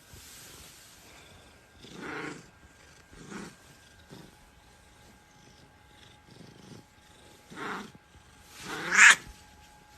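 A domestic cat meowing again and again, a call roughly every second, some faint and some louder, the loudest near the end.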